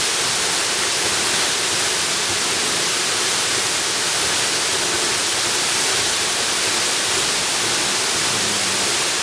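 Jungle waterfall: a steady, unbroken rush of falling water, hissy and even throughout.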